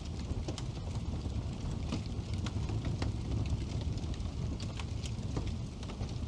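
Wood fire burning in a fireplace: a steady low rumble of flames with frequent, irregular crackles and pops from the burning wood.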